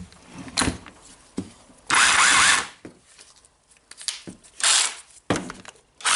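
Makita DHR202 18V rotary hammer test-run after a switch replacement, its motor triggered in three short bursts. The first and longest comes about two seconds in, with the pitch rising as it spins up, and a few handling clicks fall between the bursts.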